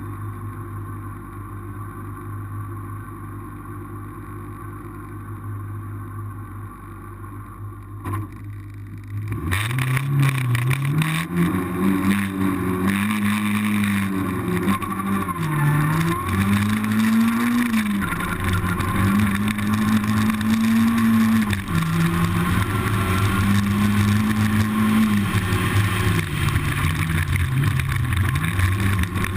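Renault Clio Cup race car engine: a steady low hum for the first nine seconds, then about nine seconds in the engine revs up loudly and runs hard, pitch climbing and holding at high revs, then dropping and climbing again several times as it shifts gears and brakes for corners.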